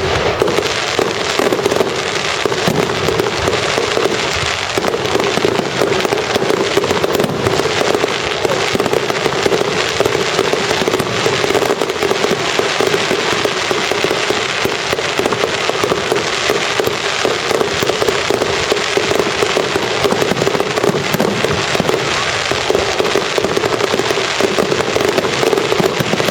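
Fireworks display: a dense, unbroken stream of rapid crackles and bangs at steady loudness.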